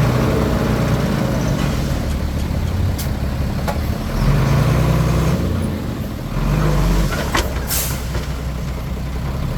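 Komatsu D21P crawler bulldozer's diesel engine working under load, its pitch and loudness rising and falling as it pushes, with a few sharp clanks and a short hiss near the end.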